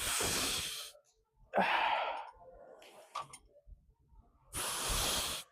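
A man's forceful exhalations while lifting weights: three long, hard puffs of breath, the second with a short grunt at its start, spaced a couple of seconds apart.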